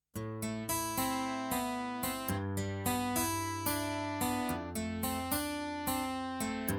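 Kurzweil K2000 synthesizer playing a dry factory program with a plucked, guitar-like tone, with no effects. Notes with sharp attacks are played at about three to four a second, starting suddenly just after silence.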